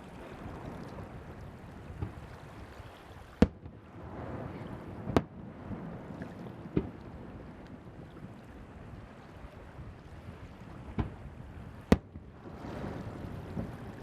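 Fireworks shells bursting over the sea: five sharp reports spread unevenly, the loudest about three and a half seconds in and just before the end, over a steady rush of wind on the microphone and waves.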